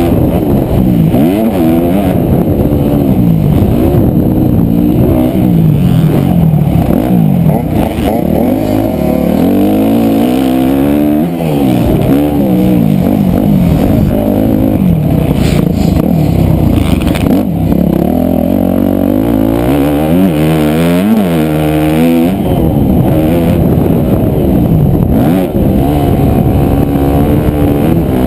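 Motocross dirt bike engine revving hard, its pitch repeatedly climbing and dropping as the throttle opens and closes, heard close up from a camera on the moving bike.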